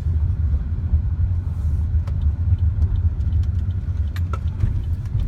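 Car driving, heard from inside the cabin: a steady low road and engine rumble with a few faint clicks.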